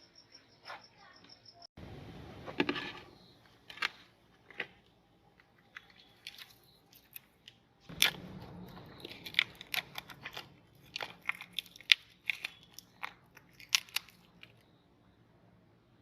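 Meat grinder crunching through hard items, with many irregular sharp cracks and crunches that stop about a second and a half before the end.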